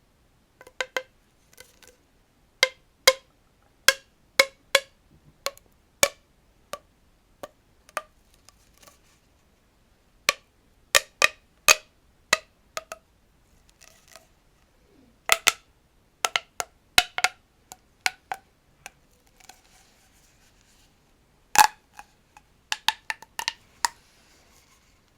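Collapsible tube giving a run of sharp, irregular clicks in small clusters with short pauses. A stretch of faint scratching comes about three quarters of the way through.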